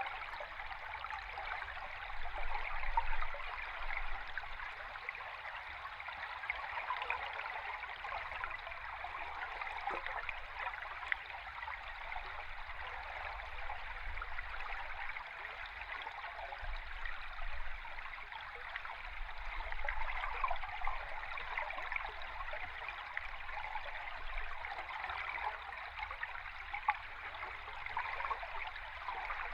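A flowing river stream recorded underwater: a steady rush of moving water with a dense patter of small ticks and crackles.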